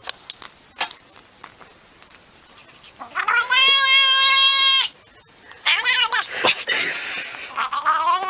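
Cat meowing: one long, level meow about three seconds in, then several shorter meows that bend and waver in pitch in the second half.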